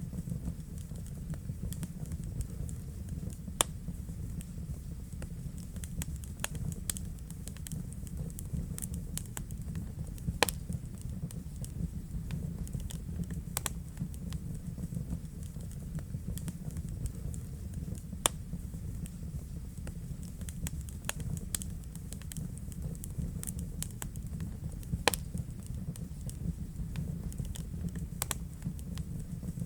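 Wood fire burning in a fireplace: a steady low rumble of the flames with frequent irregular crackles and pops, a handful of sharper snaps standing out.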